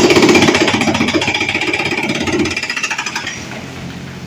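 Excavator demolishing a house: a rapid, rattling hammering that starts suddenly, is loudest for about the first two and a half seconds, then fades.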